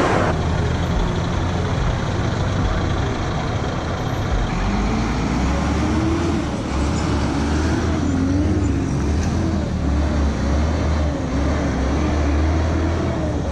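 Motorcycle riding in road traffic: a steady engine and road drone. From about five seconds in, a tone rises and falls in pitch over it.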